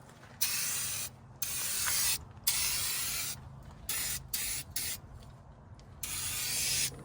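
Aerosol spray-paint can fitted with a turbo spray tip, hissing in a series of short bursts, each about half a second to a second long, as paint is sprayed on in passes.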